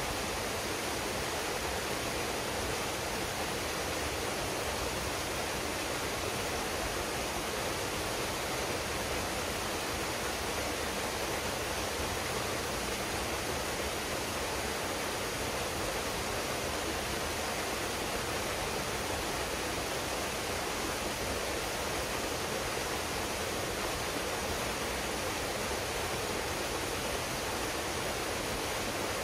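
A waterfall pouring steadily into a pool, a constant even rush of falling water with no let-up.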